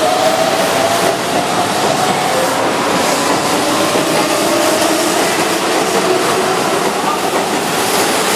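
Keihan 7200-series electric train running, a steady rumble with a faint whine that slowly rises in pitch.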